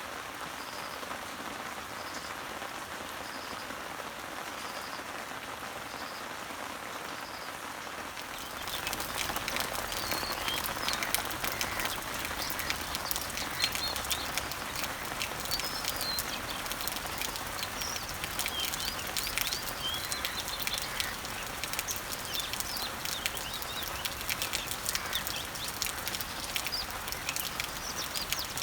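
Steady summer rain falling on garden leaves and trees, with birds chirping. For the first several seconds a short high note repeats about once a second. About eight seconds in the rain gets louder, with distinct drops pattering on the leaves, and several birds chirp over it.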